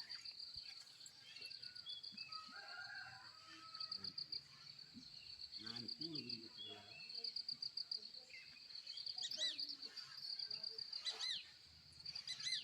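Crickets chirping in a steady, fast pulsing trill, with a few short bird chirps about two-thirds of the way in.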